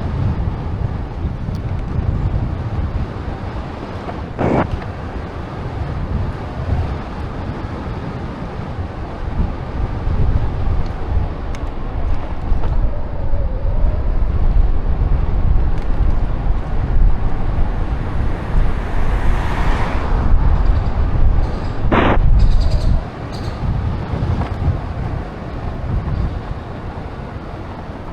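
Wind buffeting the microphone and road noise from a bicycle in motion: a steady low rumble, with a sharp knock about four seconds in and another about twenty-two seconds in.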